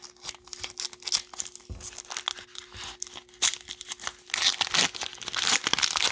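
Cellophane wrapper of a trading-card pack being torn open and crinkled by hand, an irregular run of crackles that grows denser about two-thirds of the way through.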